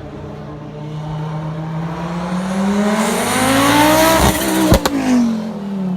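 Turbocharged five-cylinder Audi quattro S1 rally car accelerating hard, its engine note rising steadily, then two or three sharp bangs a little under five seconds in, after which the engine note falls in pitch.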